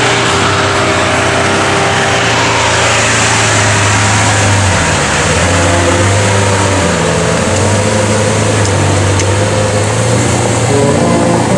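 Car engine running steadily with a low hum and shifting tones, over street and road noise.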